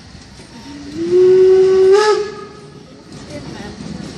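Steam locomotive whistle giving one loud blast of about a second and a half, sliding up in pitch as it opens, then holding one tone until it cuts off.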